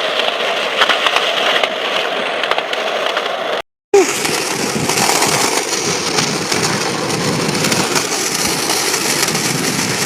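Ripstick wheels rolling fast down a paved hill, a steady rolling noise. It cuts out for a moment about four seconds in, then runs on with more hiss.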